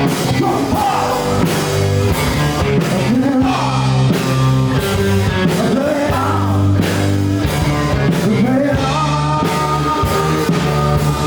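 Rock band playing live, with a singer's voice over the full band and drums.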